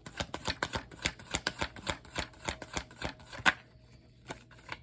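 Tarot cards being shuffled by hand: a fast, irregular run of papery clicks that stops about three and a half seconds in with one louder click, followed by a few faint ones.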